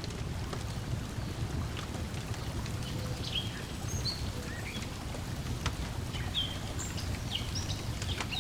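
Layered lakeside ambience: a steady wash of lake water lapping at the shore, a wood fire crackling with scattered sharp pops, and birds chirping short high notes from about three seconds in.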